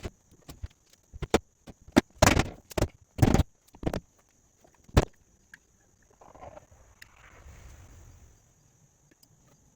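Irregular wooden knocks and clatters: a handful of sharp single hits and a couple of short rattles over a few seconds, as strips of wood and lumber are handled and set against the joists, then a faint rustling.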